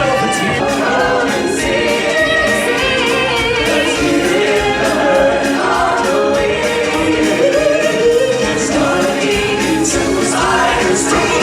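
A choir singing over loud band music, a show tune running on without a break.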